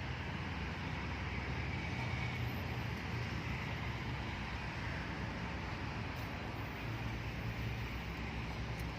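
Steady outdoor background noise: an even low rumble with a hiss over it and no distinct events.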